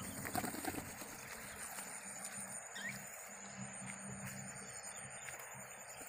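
Quiet open-air ambience with a few faint, brief bird chirps and a thin steady high tone in the background.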